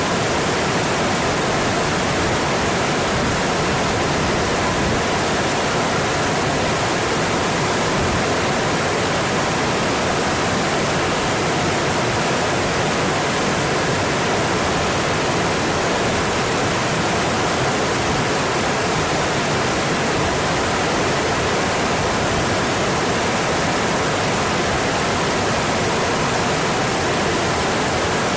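Mountain stream rushing over its rocky bed: a steady, even rush of running water.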